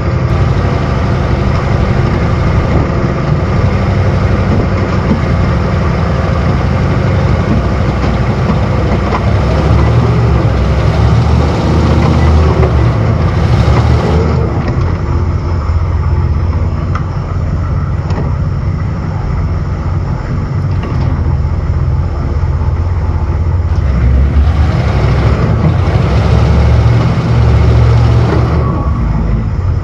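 1990 M998 Humvee's diesel V8 running under load as the truck tries to climb an icy, snow-covered driveway, swelling louder twice; the tyres cut through the snow and slip on the ice beneath, losing traction.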